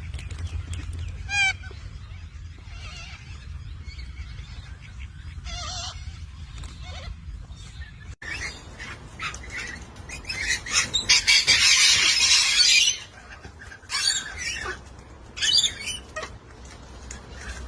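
Birds squawking and calling, with one long, loud squawk lasting about two seconds near the middle and several shorter squawks after it.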